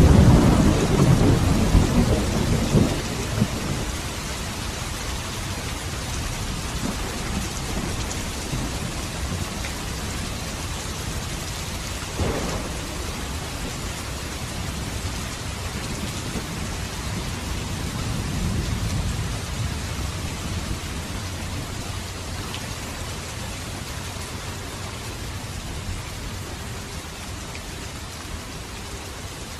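Steady rain falling in a thunderstorm. A loud rolling rumble of thunder opens and fades over about three seconds, a short sharp crack comes about twelve seconds in, and a softer rumble swells around eighteen to twenty seconds.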